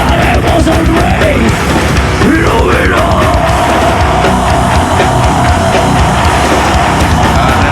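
Heavy metal band playing live at full volume: dense, aggressive music that runs without a break.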